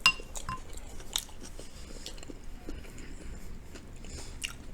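Close-up chewing and biting of battered General Tso's cauliflower, with many small crunchy clicks. A short ringing clink right at the start and a smaller one about half a second in.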